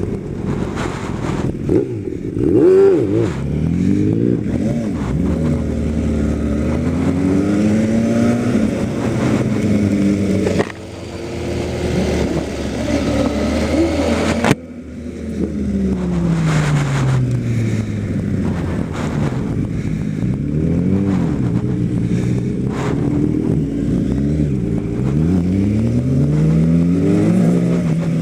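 Kawasaki ZX-10R sport bike's inline-four engine under way, its pitch climbing and dropping again and again as it accelerates through the gears, shifts and slows. There is a long falling pitch about 15 seconds in, and two sudden brief drops in level, about 11 and 15 seconds in.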